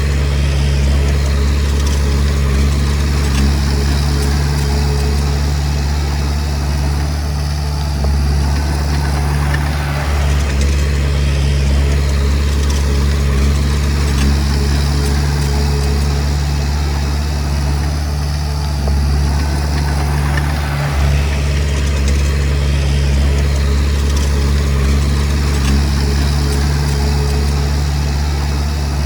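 Komatsu D20P bulldozer's diesel engine running steadily, its low note holding nearly constant throughout.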